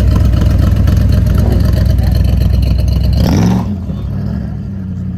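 A car engine running loud with a deep rumble. About three and a half seconds in, it drops suddenly to a quieter, steadier running sound.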